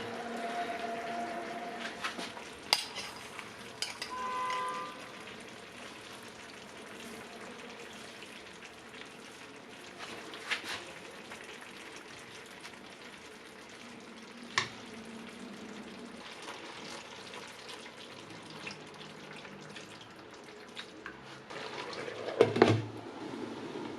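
Food sizzling as it fries in a pan, with a few sharp clicks of a utensil against the pan. Near the end a louder rushing burst of sound comes in.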